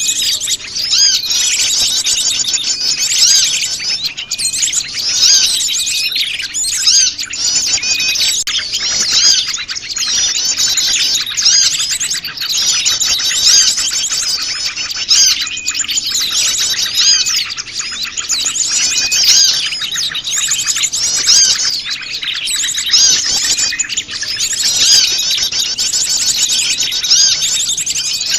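A dense chorus of many small wild songbirds chirping and twittering all at once, a busy mixed-species lure call for attracting small birds. The quick, overlapping high chirps go on without a break.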